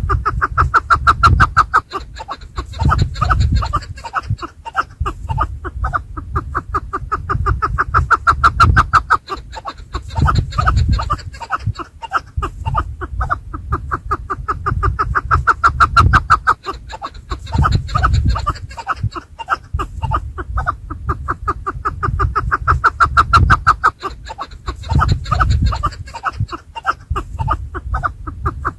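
Chukar partridges calling: rapid repeated clucking chuk notes in loud phrases of a couple of seconds, repeating every few seconds, over a low rumble.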